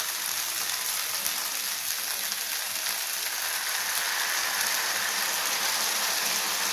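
Chopped okra with onion and tomato sizzling steadily in a pan of hot oil, just after tamarind juice has been poured in.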